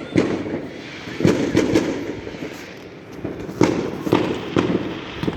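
Fireworks going off: a string of sharp bangs and crackles at uneven intervals, several loud reports among them, over a continuous rumble of more distant bursts.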